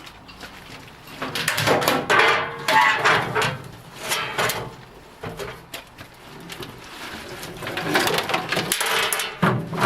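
Metal parts-washer tank being handled and shifted onto a workbench: irregular clattering, knocking and scraping in several spells.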